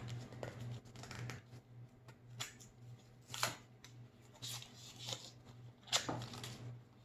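Small plastic toy packaging and figures being handled and opened, a few scattered clicks and rustles, over a steady low hum.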